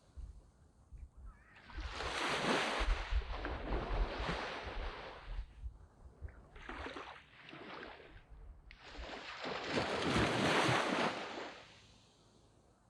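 Sea waves breaking and washing up a sandy beach. Two big surges come in, about two seconds and nine seconds in, with a smaller wash between them, and it falls quiet near the end.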